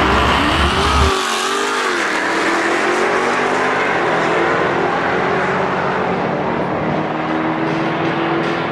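Ford Mustang GT's 5.0 V8 at the drag-strip start line, revving up and down briefly about a second in, then held at a steady raised engine speed that creeps up slightly near the end.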